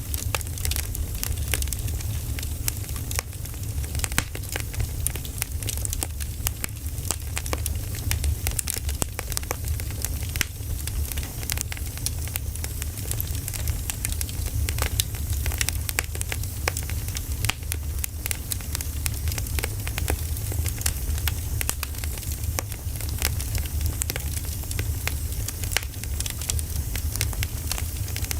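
Wood fire burning, crackling steadily with many small irregular pops over a low, even rumble.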